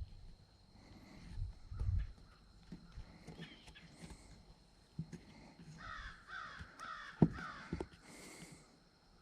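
An animal gives about four short, harsh calls in quick succession starting about six seconds in. A few soft low knocks come earlier, and one sharp click sounds among the calls.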